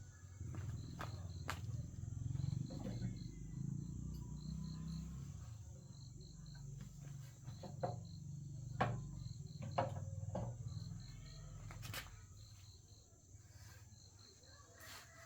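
A cricket chirping in short groups of three or four pulses, about once a second, over a low rumble, with scattered sharp clicks and knocks.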